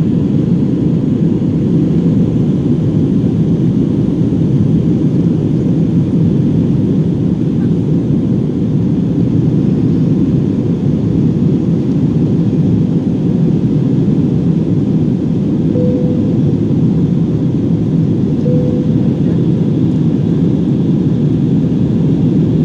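Airbus A321-200 jet engines running under power, heard inside the passenger cabin as a steady, even low rumble. Two faint brief tones come about two-thirds of the way through.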